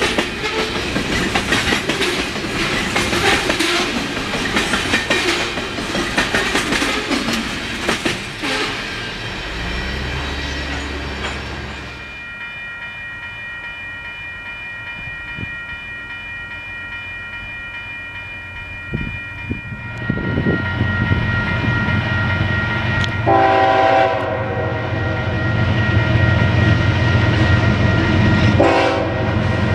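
Canadian Pacific freight train cars rolling past with a dense clickety-clack of wheels over the rail joints for the first several seconds. Later a diesel locomotive's low rumble builds, and its horn sounds two short blasts about five seconds apart near the end.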